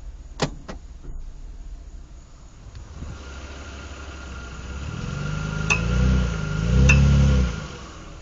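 2007 Mitsubishi Eclipse engine pulling under load, rising and falling in pitch twice. Sharp single clicks sound from the drive train, two near the start and two more as the engine pulls hardest. This is the load-dependent clicking of a worn left front drive axle, which went away once the drive axles were replaced.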